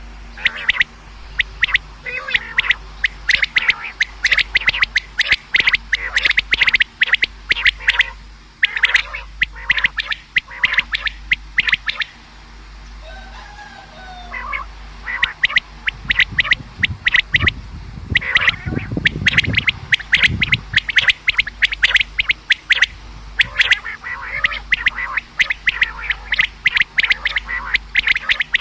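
Common quail calling over and over in quick runs of short, sharp high notes, with a brief lull about halfway through. A low rumble sits under the calls a few seconds after the lull.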